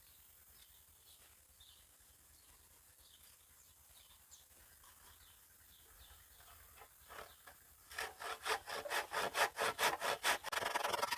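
Faint bird chirps, then about seven seconds in a hand saw starts cutting through driftwood with regular back-and-forth strokes, about three a second, quickening near the end.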